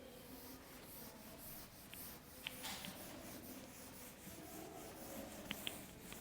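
Faint rubbing and scraping on a teaching board, with a few light clicks, as the board is worked by hand.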